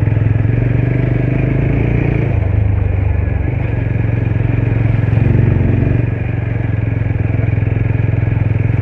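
Motorcycle engine running under way with a steady low drone, rising briefly in pitch about two seconds in and again around five seconds, then easing off just after six seconds.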